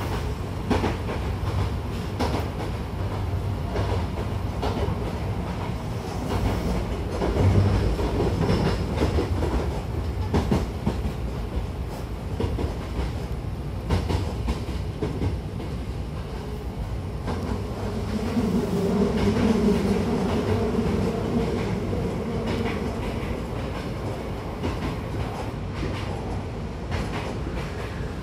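Hankyu 1000 series electric train running, heard from inside the carriage: a steady rumble with irregular clacks of the wheels over rail joints. A low hum comes in for a few seconds about two-thirds of the way through.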